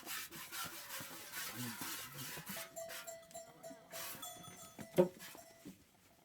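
Sheep or goats shuffling and rustling close by, with a thin steady ringing tone for a few seconds midway and one sharp knock about five seconds in.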